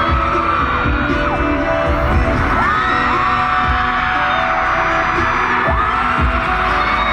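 Live pop music playing loudly through a concert sound system, with a heavy thumping bass beat, recorded from the audience. High voices slide upward every couple of seconds over the music.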